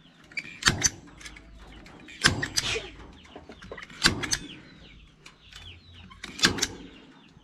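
Chickens clucking and chirping, broken by four sharp clacks about every two seconds from a tool fastening wire mesh to the coop frame.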